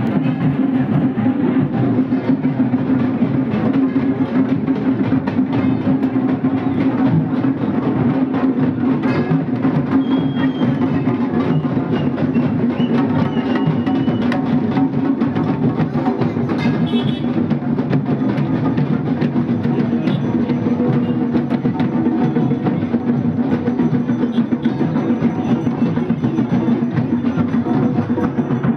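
Fast, dense drumming that keeps up without a break, over a steady low drone.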